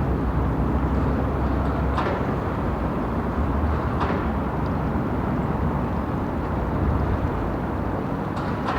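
City street noise at night: a steady low rumble of traffic, broken by a few short, sharp clicks about two seconds in, about four seconds in, and near the end.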